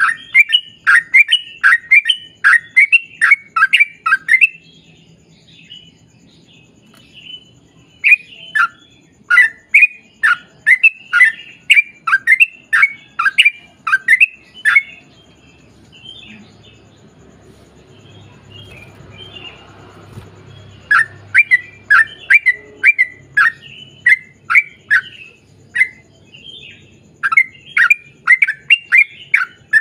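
Yellow-vented bulbul singing long, rapid runs of chirping notes, about three a second, each note sweeping downward. The runs break off about four seconds in and again about fifteen seconds in. Quieter scattered chatter fills the gaps until a new run starts about twenty seconds in.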